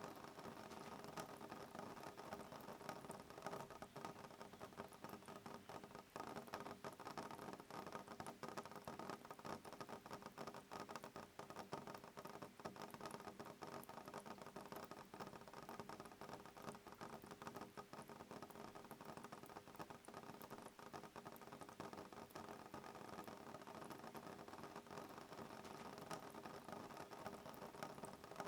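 Soft rain pattering on a window pane: a steady, faint stream of fine drop ticks over a light hiss, with no thunder.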